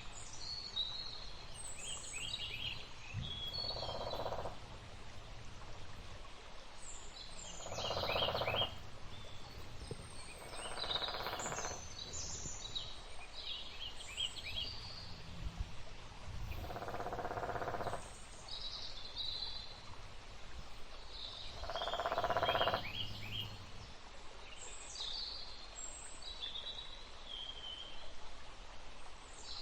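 Forest ambience of birds chirping and trilling, with a lower call of about a second rising out of it every few seconds, over a faint low hum.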